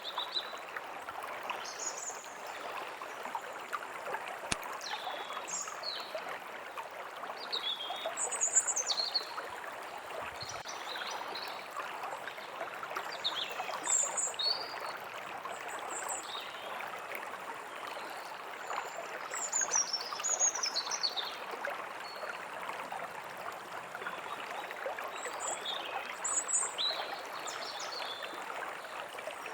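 A forest stream running steadily, with songbirds giving short, high chirps and a few falling whistled calls scattered throughout.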